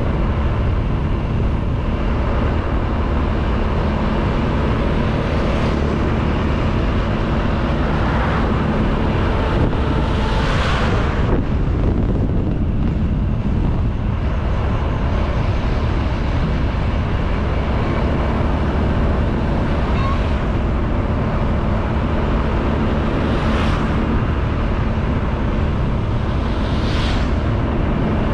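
Honda Beat 110cc scooter being ridden, its single-cylinder four-stroke engine running steadily under wind and road noise on the microphone. A few brief swells of noise rise and fade about a third of the way in and again near the end.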